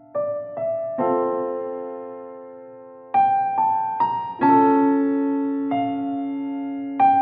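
Slow background piano music: single notes and chords struck one after another and left to ring out.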